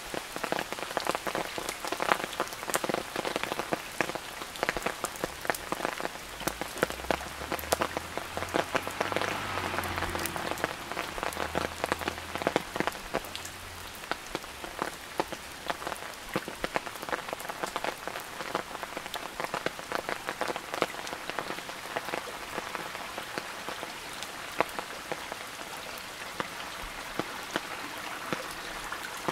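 Steady rain falling, with many close, sharp raindrop taps, and a faint low hum for several seconds in the first half.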